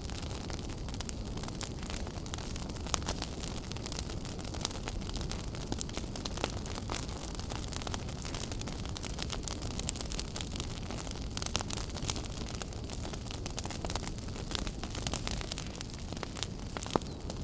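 Wood fire burning in a fireplace, a steady low rumble with frequent sharp crackles and pops scattered irregularly, the loudest pop near the end.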